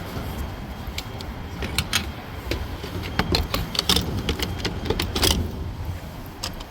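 Low, steady vehicle rumble with a run of sharp clicks and jingling, like keys or loose metal, thickest around the middle.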